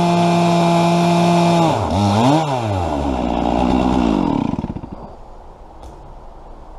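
Stihl chainsaw on a chainsaw mill running at a steady high pitch at full throttle. Its revs drop about one and a half seconds in, blip up once, settle to idle, and the engine stops about four and a half seconds in.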